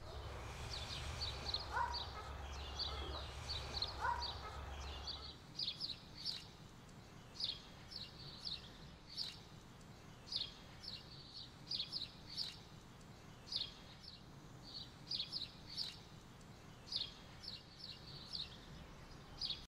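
A small bird chirping over and over, short high chirps coming in quick little runs. A low steady hum underneath stops about five seconds in.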